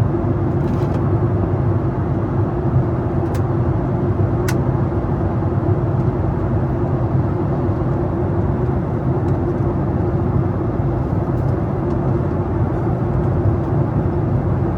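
Steady cabin noise of a Boeing 737 airliner on approach, heard from inside the passenger cabin: engine and rushing air with a low, even hum. Two faint ticks come about three and four and a half seconds in.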